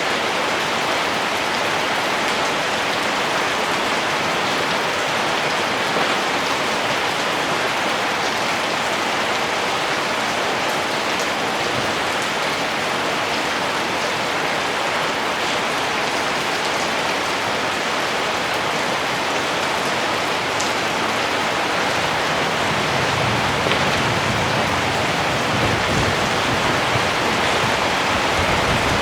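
Steady, dense rainfall, an even hiss of many drops with scattered individual drop ticks. A low rumble grows underneath over the last several seconds.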